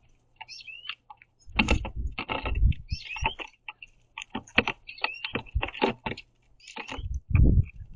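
Birds feeding on a platform feeder right at the microphone: quick, irregular tapping and clicking of beaks pecking at seeds, mixed with short chirp notes. Heavier thumps come about two seconds in and near the end.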